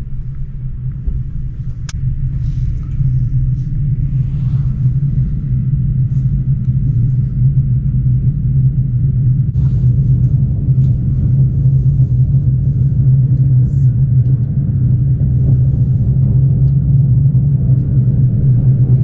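Rhaetian Railway electric train pulling away and gathering speed, heard from inside the carriage: a steady low rumble that grows louder as the train speeds up, with a few faint clicks.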